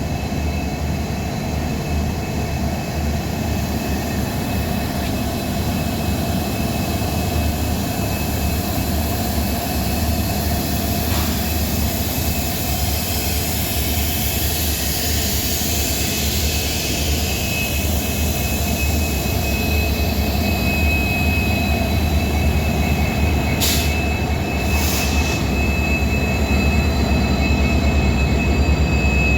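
Heavy diesel train running steadily, with a low, continuous engine drone and a thin, high-pitched wheel squeal that grows louder past the middle. Two short hisses come near the end.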